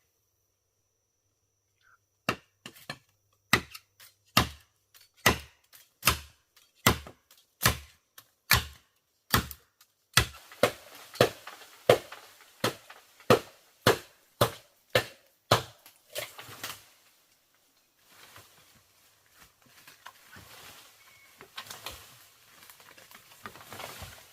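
A blade chopping bamboo in steady, evenly spaced strokes, about twenty sharp strikes that quicken a little halfway through, then stop, giving way to softer rustling and scraping of the bamboo.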